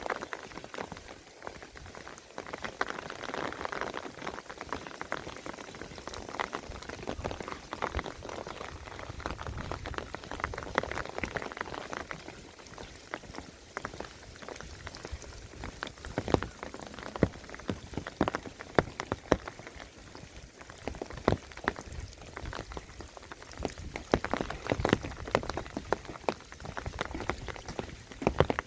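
Water pattering in a dense, irregular stream of drops and splashes, with sharper single taps standing out here and there, most of them in the second half.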